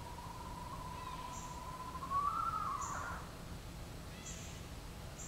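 A long, drawn-out animal call held on one whistled pitch for a couple of seconds. It then swells, rises and falls away into a rough, breaking ending. A second call begins near the end, and faint short high chirps repeat in the background.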